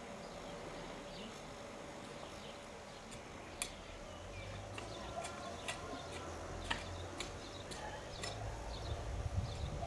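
Faint garden ambience: small birds chirping in the background, with scattered sharp clicks and a low rumble from about four seconds in.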